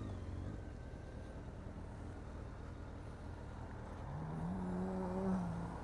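Motorcycle engine running under a steady rumble of road and wind noise; about four seconds in, its note rises as the bike accelerates, then holds.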